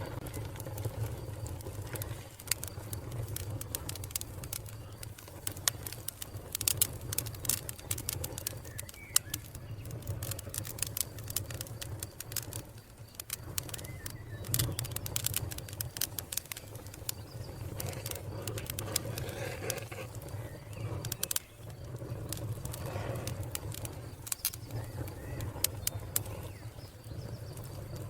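Wood fire crackling, with frequent sharp irregular pops over a steady low rumble, and birds calling faintly in the background.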